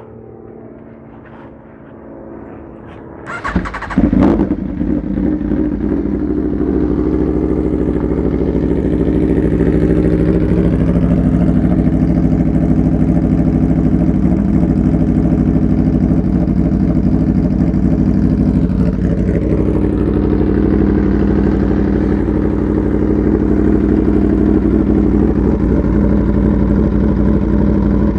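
Aprilia Tuono V4 motorcycle engine through an SC-Project CR-T exhaust, started about three and a half seconds in: a brief crank, then it catches loudly and settles into a steady idle.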